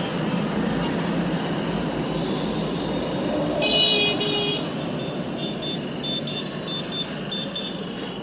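Street traffic noise with a vehicle horn honking once, about three and a half seconds in, then a run of short, high repeated beeps.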